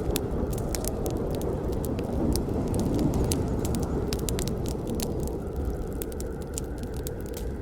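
Campfire burning: a steady low rush of flames with frequent sharp, irregular crackles and pops of burning wood.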